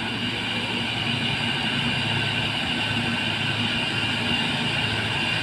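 Heavy diesel truck engine running steadily under load, a low drone that grows a little louder in the first second and then holds.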